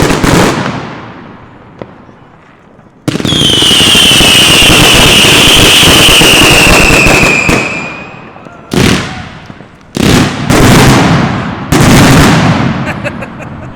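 Consumer New Year's fireworks. A sharp bang is followed by about four seconds of loud hissing with a high whistle slowly falling in pitch, then a run of four sharp bangs over the last few seconds.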